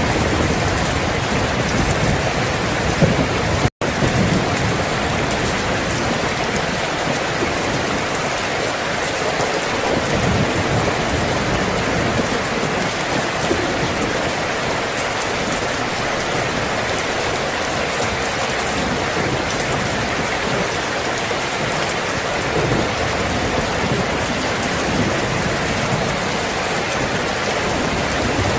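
Steady heavy rain falling on surfaces, with low rolls of distant thunder swelling now and then. A split-second cut to silence about four seconds in.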